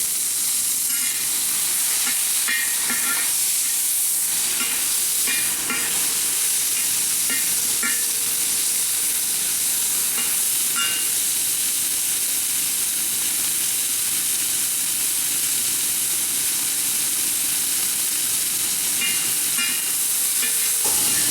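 Chicken pieces sizzling in stir-fry oil in a very hot carbon steel wok over a charcoal fire: a steady frying hiss.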